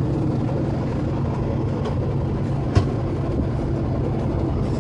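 Steady drone of a semi truck's diesel engine and road noise heard inside the cab at highway speed, with one sharp click a little under three seconds in.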